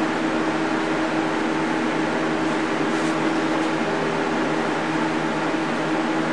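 Fan running steadily to make a high wind: a constant rushing noise with an even motor hum under it.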